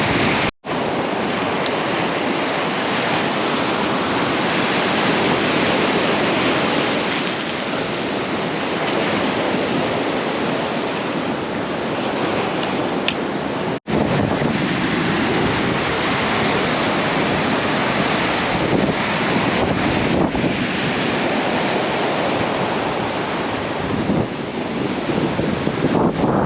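Ocean surf washing onto a beach, a steady rushing noise, with wind buffeting the microphone. It cuts out for an instant twice.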